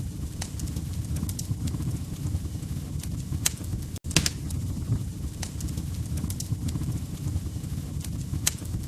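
Wood fire crackling in a fireplace: irregular sharp pops and snaps over a steady low rumble of burning logs, with a momentary dropout about four seconds in.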